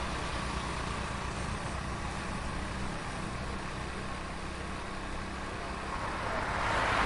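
Heavy street traffic heard from a moving bicycle taxi: a steady low rumble of engines and road noise that swells louder near the end, as if a vehicle passes close.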